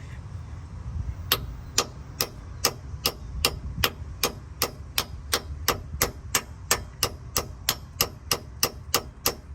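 A hammer tapping a metal part, driving it into place: about twenty light, evenly spaced strikes, roughly two and a half a second, starting about a second in.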